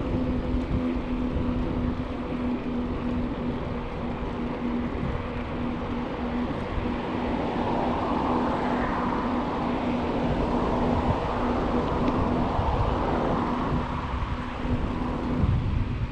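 Wind buffeting the microphone and bicycle tyres rolling on the trail, with a steady hum throughout; the hiss swells for several seconds in the middle.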